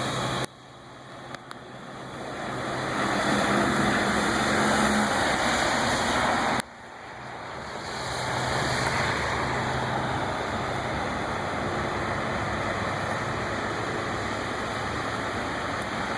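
A vehicle driving through deep floodwater: a rushing wash of water and tyre spray over a low engine hum. The sound cuts out abruptly twice and swells back up.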